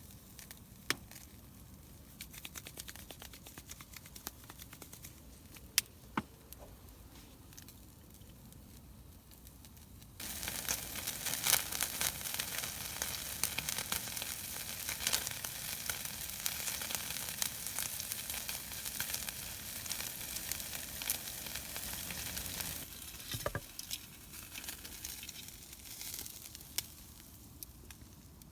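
Loud sizzling and crackling that starts suddenly about ten seconds in and dies down about thirteen seconds later. Before and after it there are only scattered small clicks and taps.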